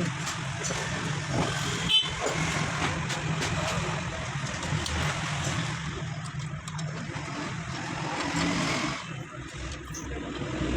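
Honda CD70's single-cylinder four-stroke engine running steadily at idle.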